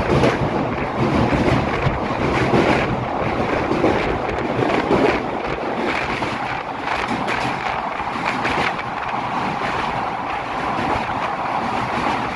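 Express train coach running over a steel truss railway bridge: a steady rumble and clatter of wheels on rails, with irregular knocks through it. Heavy wind buffets the microphone held out of the moving coach.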